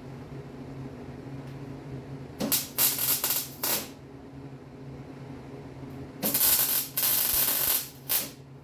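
Welding in short bursts: six crackling arcs, each lasting from a fraction of a second to about a second, come in two groups of three. A steady low hum runs underneath.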